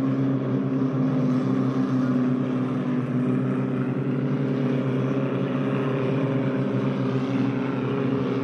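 Motorboat powered by a Mitsubishi L300 van engine, running steadily at an even pitch.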